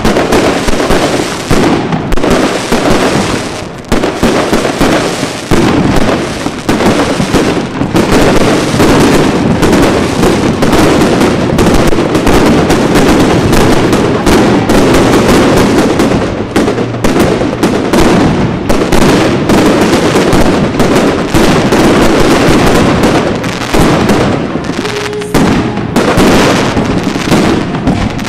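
Fireworks display: a rapid, almost unbroken string of bangs and crackles from exploding shells, many reports overlapping.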